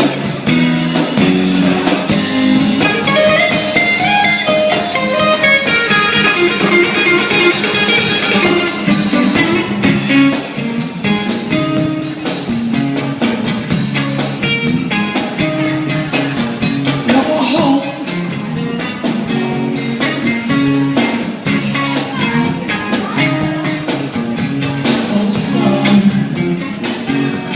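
Live blues band playing an instrumental break: electric guitar solo over bass and drum kit with a steady beat.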